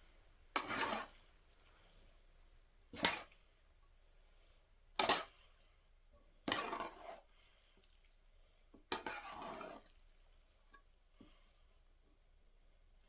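Pots, dishes and utensils handled while cooking: five short clattering, scraping sounds about two seconds apart, with quiet in between.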